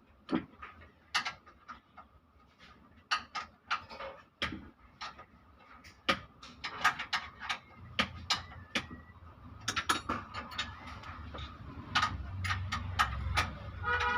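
Irregular metallic clicks, taps and clinks of tools and parts being handled during an engine teardown. A low hum builds in the second half.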